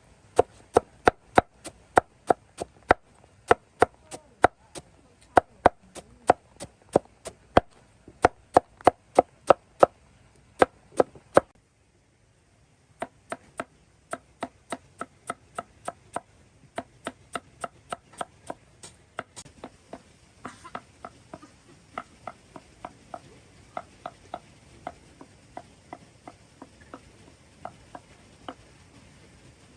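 Steady chopping strikes, about two to three a second. They are loud for the first eleven seconds, stop briefly, then go on more softly until near the end.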